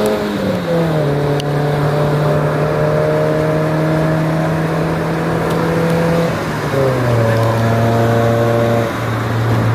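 Mahindra Thar's engine and exhaust heard from inside the cabin, running at steady revs. Its pitch steps down twice, about a second in and again about seven seconds in.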